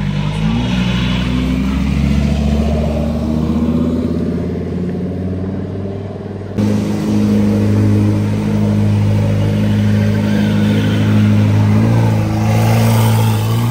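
Lamborghini Huracán Performante's V10 pulling away at low revs, its note slowly climbing. After a sudden cut, a Ferrari supercar's engine runs at a steady note and then revs up near the end.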